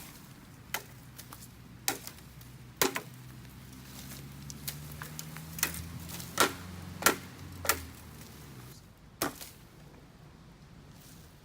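Blade chopping bamboo: about eight sharp strikes at irregular intervals, the loudest a little past the middle. A low hum runs beneath the middle stretch.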